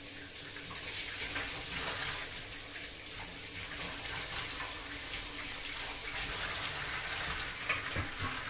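Chicken and masala sizzling steadily in hot oil in an aluminium pressure cooker, with a few short sharper scrapes or knocks, the sharpest near the end. The chicken is being bhuna-fried until it turns red.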